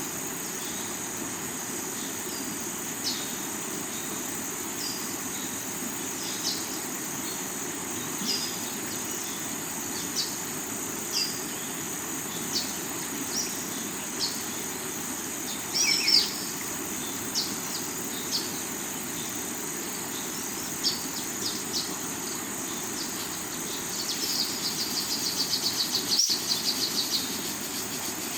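Steady rush of a rocky river with forest ambience over it: short high bird chirps every second or two, a louder call about halfway through, and a fast trill near the end, above a steady high insect buzz.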